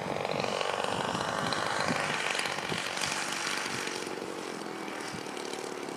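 Radio-controlled model airplane's motor and propeller running in flight, a whine that swells as the plane passes closest about two seconds in and then fades away.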